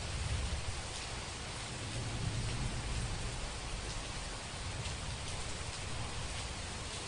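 Heavy rain falling in a steady, even hiss, with faint drop ticks. A low rumble of distant thunder swells through the first three seconds or so and then fades back under the rain.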